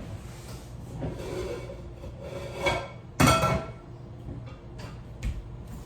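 Kitchen cookware and utensils being handled: rubbing and scraping, one loud clatter about three seconds in, then a few light knocks.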